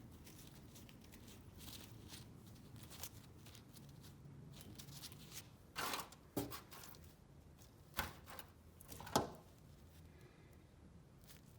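A few sharp clicks and knocks over a low, steady hum; the loudest knock comes about nine seconds in.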